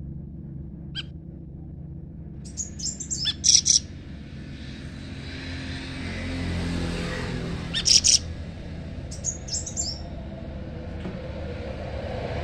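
Small songbirds giving short, high, sharp chirping calls in several quick bursts, answering each other, over a steady low rumble.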